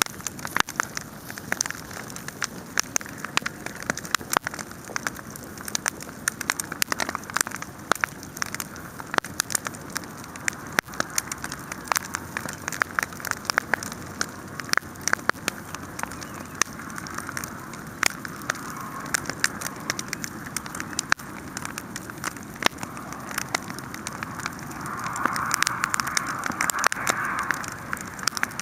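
Wood fire burning steadily, crackling and popping with many sharp snaps over a constant hiss, and a stretch of louder hissing near the end.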